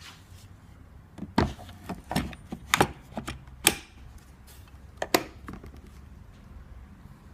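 A run of sharp knocks and clicks, about eight of them over four seconds, the loudest about a second and a half in and again near the end.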